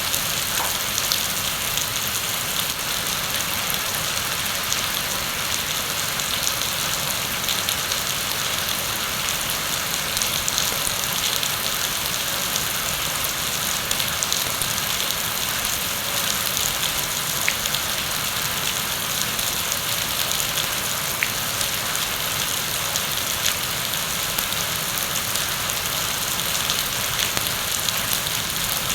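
Steady heavy rain pouring onto a surface, a dense even hiss with scattered individual drops ticking through it.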